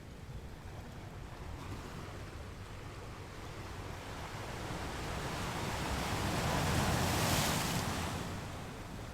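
Ocean waves on a beach: steady low surf, with one wave building to a hissing break about seven seconds in and then washing back down.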